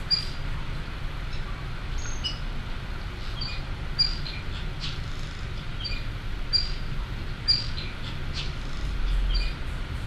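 A bird, which the uploader suggests may be a female figbird, giving short, sharp high chirps repeated every second or two, over a steady low background rumble.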